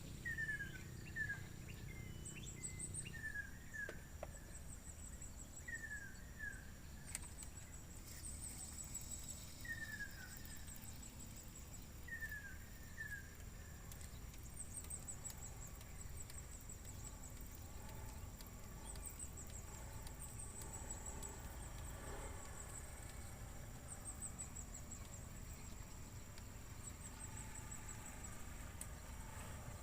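Birds and insects calling: a steady high insect buzz, with short falling whistled notes in pairs every couple of seconds during the first half, and quick runs of very high falling chirps repeating every few seconds.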